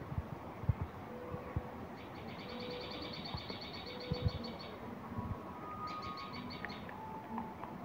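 A small bird's rapid chirping trill, twice, the first about two and a half seconds long and the second shorter near the end, over a few soft low knocks.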